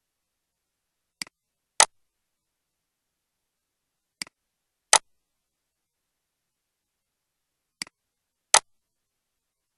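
Three pairs of sharp clicks in dead silence, each a faint click followed a little over half a second later by a louder one.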